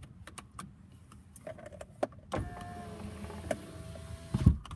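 Car power window motor running with a steady whine for about two seconds, then a thump as it stops. A few light clicks come before it.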